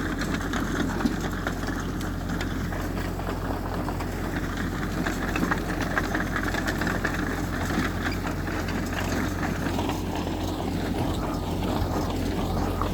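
Heavy diesel earthmoving machinery running steadily, a constant low engine drone with scattered light clicks.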